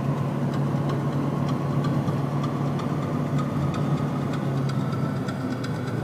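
Car engine running steadily under load as the car climbs a mountain road, heard from inside the cabin, its pitch slowly rising.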